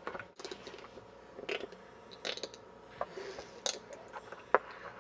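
Scattered faint clicks, taps and rustles of something being handled at close range, most likely the camcorder itself.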